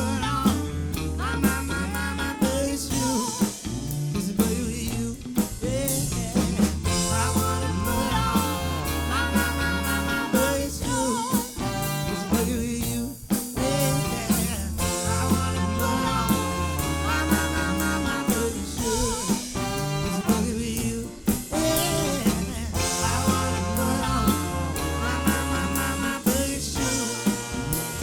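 Live band music with a steady beat on a drum kit, a bass line and melodic instruments over the top.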